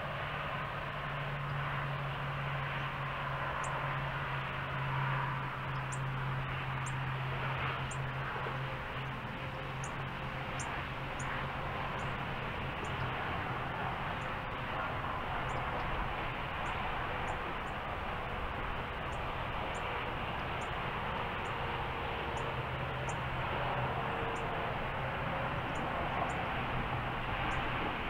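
Short, high, thin bird call notes, often in pairs, repeating about once a second over a steady low rumble and hiss of distant background noise.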